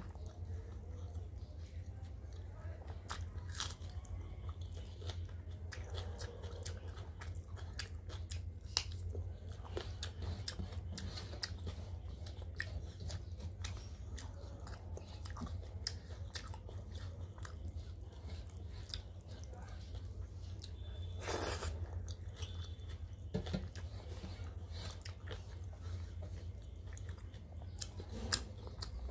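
Close-up chewing and biting of rice, dal and fried fish eaten by hand, with scattered small clicks and taps as the fingers work the food on a metal plate. A steady low hum runs underneath, and one louder noisy sound comes about two-thirds of the way in.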